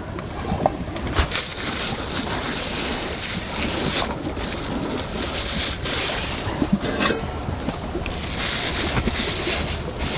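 Gusting wind noise that rises and falls in swells every couple of seconds, with a single light knock about seven seconds in.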